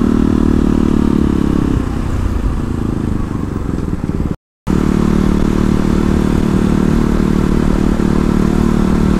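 KTM Duke motorcycle's single-cylinder engine running at steady road speed. The engine note eases for a couple of seconds, then the sound cuts out completely for a moment just before the halfway point, and the engine comes back at a steady cruise.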